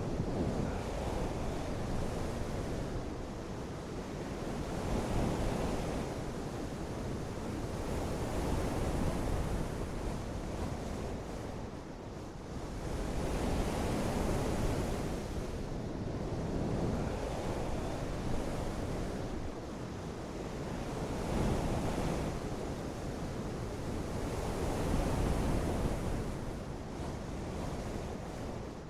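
Rain with gusting wind: a continuous rushing noise that swells and eases every few seconds.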